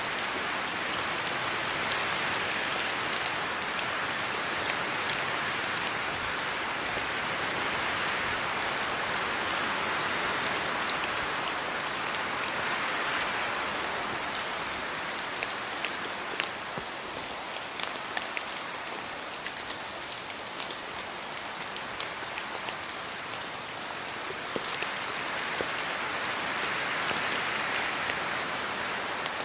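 Steady rain falling on a yard, with a dense patter of individual drops over the continuous hiss; it eases slightly midway and picks up again near the end.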